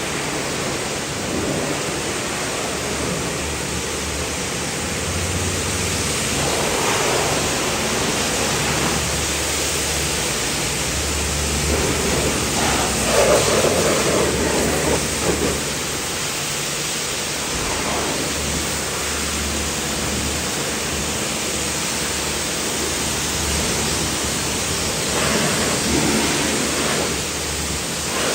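High-pressure water spraying onto a car's bodywork, a steady hiss that swells louder now and then as the jet moves.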